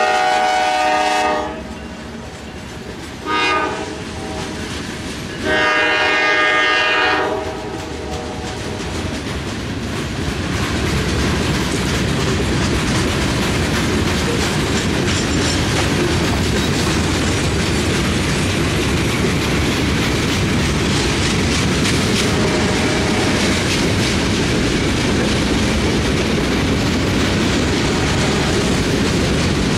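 Norfolk Southern diesel locomotives' air horn sounds a long blast, a short one and another long one, the end of the grade-crossing signal, as the engines pass. Then the freight cars roll by with a steady clatter of wheels on the rail joints, building up and holding.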